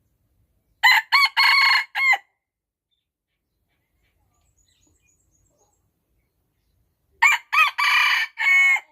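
A rooster crowing twice, each crow a cock-a-doodle-doo of several linked notes lasting about a second and a half; the first starts about a second in, the second near the end.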